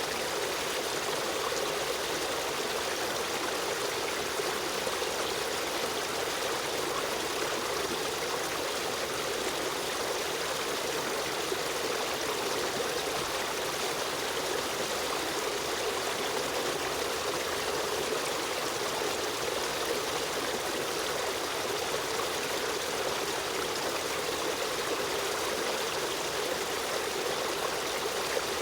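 River stream running and trickling steadily, an even rush of water with no breaks.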